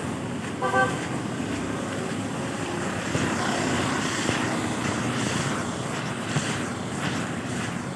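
Steady drone of a vehicle engine and road noise, with a short pitched beep just under a second in.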